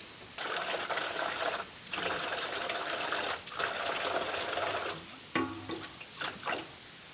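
Water pouring and splashing in three long spells with short breaks between them, then a few brief splashes near the end.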